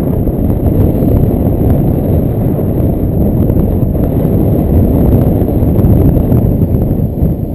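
Heavy wind buffeting the camera microphone: a loud, steady low rumble of rushing air with no engine note in it.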